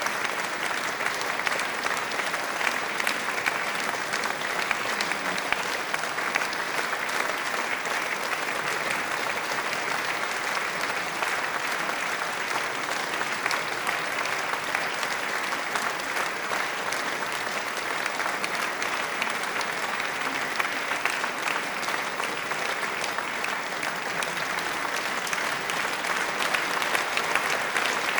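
Sustained applause from a large audience: a dense, even wash of many hands clapping, with no let-up.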